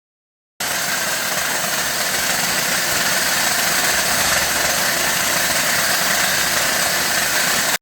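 Loud steady machine noise, a hiss-heavy whir without clear pitch, starting abruptly about half a second in and cutting off sharply at the end.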